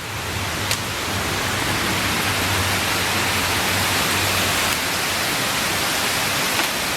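Storm downpour and wind, a steady, loud rushing hiss that swells up in the first second and then holds.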